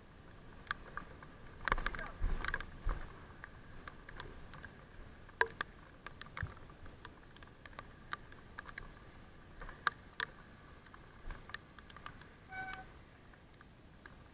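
Irregular sharp clicks and taps over a faint steady hum, with a short electronic beep near the end.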